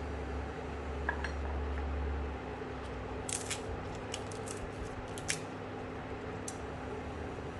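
Light metal clinks of kitchen utensils against a pot or dish, a few single ones and then a quick run of them in the middle, over a steady low hum.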